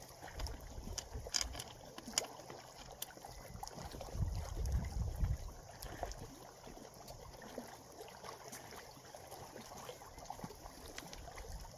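Small waves lapping and gurgling at the shoreline, with scattered small clicks and a low rumble about four seconds in.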